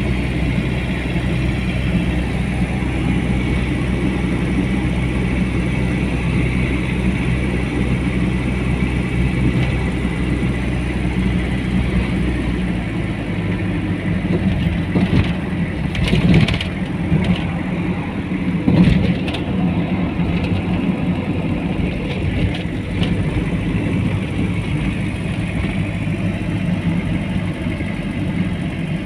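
Car engine and road noise while driving, a steady hum whose engine note shifts about twelve seconds in, with two brief louder sounds a few seconds apart past the middle.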